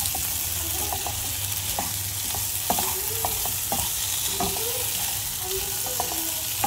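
Baby potatoes frying in oil in a nonstick pan, sizzling steadily as a wooden spatula turns them, with irregular scrapes and knocks of the spatula against the pan. The flame has just been raised from a simmer to dry the fry before it comes off the heat.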